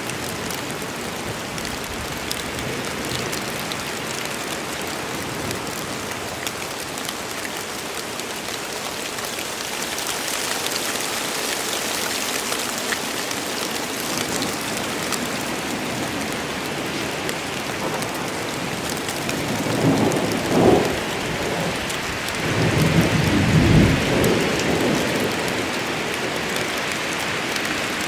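Steady rain falling in a forest, with thunder rumbling twice in the later part, once a little before the last third and again a few seconds after.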